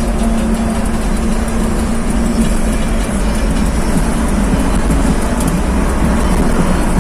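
Modified truck's engine running through a loud aftermarket exhaust, a steady, dense rumble that holds without clear revs.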